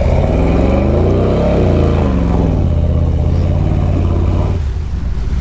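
Chevy pickup truck's engine revving as the truck is driven through a mud hole. The pitch climbs over the first second and a half, falls back and holds, then the engine eases off near the end.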